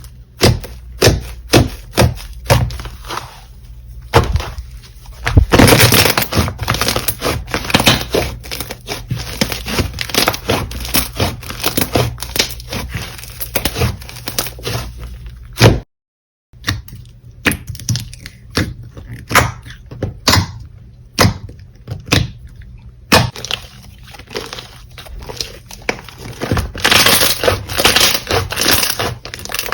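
Slime being squeezed, pressed and stretched by hand, giving a dense run of sharp crackles and pops. It breaks off for about half a second around the middle at a cut, then carries on.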